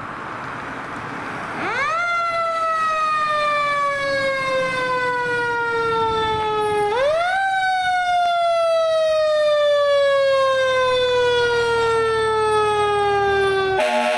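Fire engine's siren winding up quickly about a second and a half in, then slowly falling in pitch for several seconds, winding up again about halfway through and falling again, over the rising rumble of the approaching truck.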